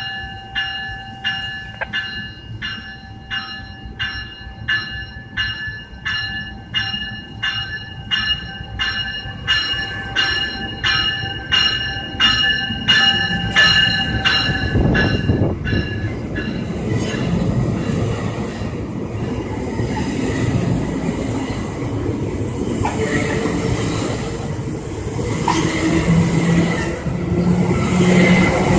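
A railway bell rings about twice a second. From about halfway a train's rumble and wheel noise build up and grow louder as it comes through, with a low steady note near the end.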